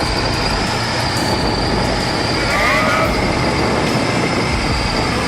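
Loud, steady running noise of heavy machinery with a constant high whine, and a few brief squeals about two and a half seconds in.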